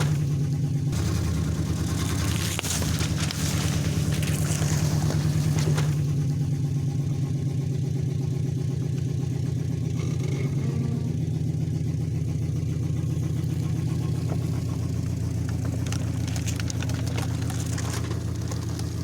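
Heavy truck engine running steadily at low revs, a deep even drone. Bursts of hissing noise come and go over it in the first few seconds and again near the end.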